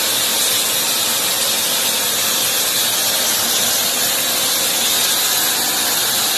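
A steady, even hiss that is strongest in the high treble and does not change.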